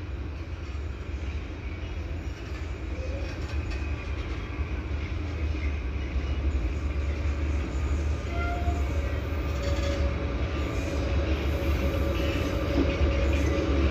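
A train approaching on the track, its rumble growing steadily louder, with a few short, faint wheel squeals.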